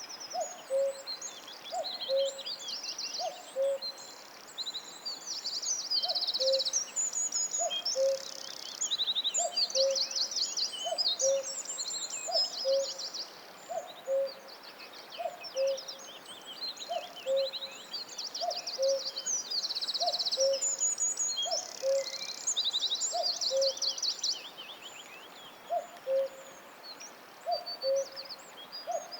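A chorus of small songbirds singing high trills and chirps, over a low two-note hooting call that falls in pitch and repeats about every second and a half.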